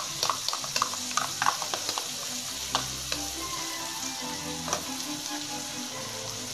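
Prawns, fish balls and fish cake sizzling steadily in hot oil in an aluminium wok. In the first three seconds or so there is a run of light clicks and taps as oyster sauce is spooned out of its container into the wok.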